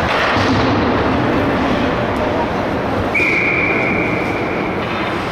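A referee's whistle blown once, one steady shrill blast of under two seconds a little past the middle, over a continuous din of players' voices and rink noise.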